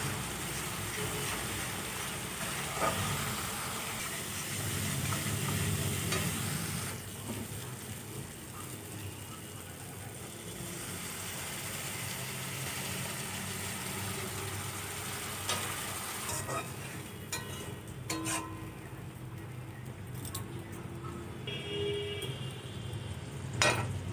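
Spice paste frying in oil in a metal wok, sizzling while a spatula stirs and scrapes it. Partway through, liquid is poured in and the sizzle dies down to a quieter simmer, with a few clicks near the end.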